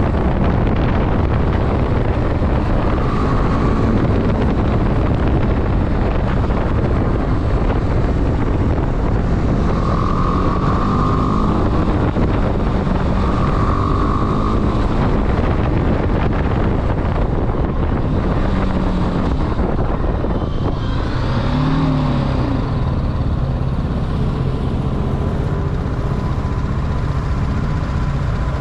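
Motorcycle on the move: heavy wind noise on the microphone over the running engine, with the engine pitch shifting about two-thirds of the way through.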